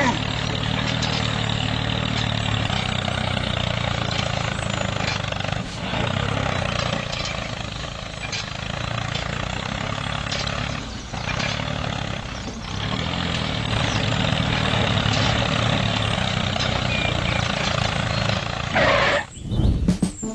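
Small motor of a DIY toy mini tractor running steadily, with a few brief dips in level. It cuts off about a second before the end.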